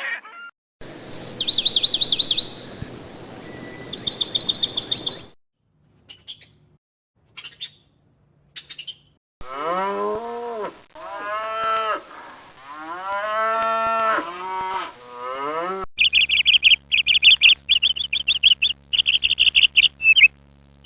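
A run of separate animal sounds. First come two bursts of a fast, high trill. Then a cow moos several times, in long calls that rise and fall. Last comes rapid high chirping, like a small bird.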